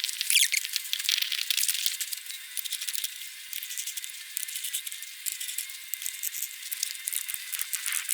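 Dense, irregular clicking and rattling from hand work on a car wheel during a tyre change. It sounds thin and tinny, with no low end.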